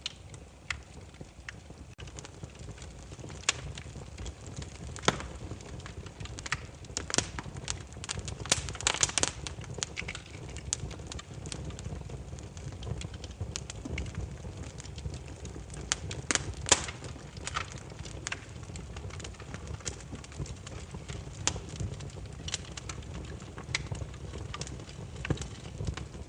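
Burning firewood crackling and popping: irregular sharp snaps over a low steady rumble of flames, with a denser run of pops around nine seconds in.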